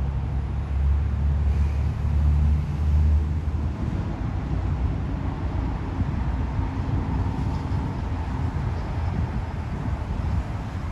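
Jet airliner engines passing low overhead on approach: a deep rumble for the first few seconds, then a broader roar with a steady whine.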